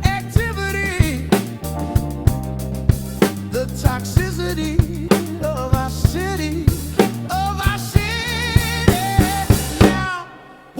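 Drum kit, with kick, snare and rimshots, played over a song with a singing voice and a steady bass line. Near the end the music drops away for a moment before the drums come back in.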